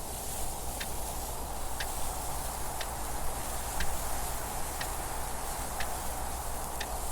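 Mechanical clock ticking steadily about once a second, with a constant wind noise rushing behind it.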